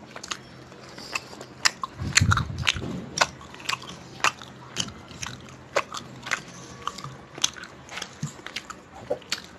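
Close-miked chewing and lip-smacking of a person eating chicken curry and naan by hand: sharp wet mouth clicks and smacks, a few each second, at an uneven pace. A louder low muffled thump comes about two seconds in.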